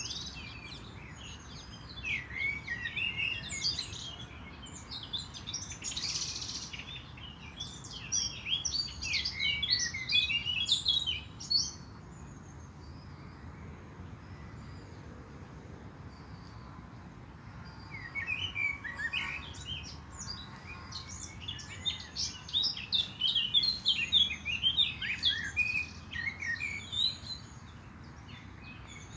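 Small birds chirping and twittering rapidly in two busy spells, with a lull of several seconds in the middle, over a steady low background hum.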